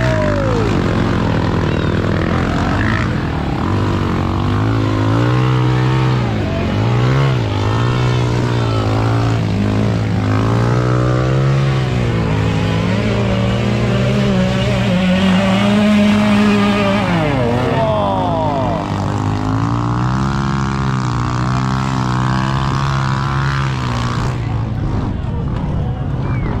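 Motocross dirt bike engines revving, their pitch rising and falling again and again as the throttle is worked, over a steadier low engine drone.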